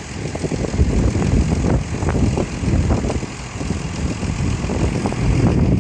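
Tractor diesel engine running hard under load on a dynamometer, a loud, heavy, uneven rumble.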